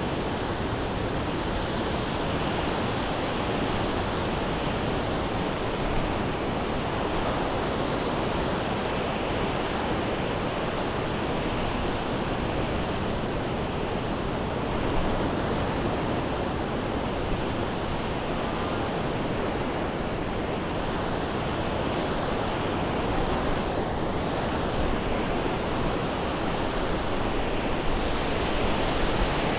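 Steady wash of surf on a sandy beach, an even roar of breaking waves with a low wind rumble on the microphone.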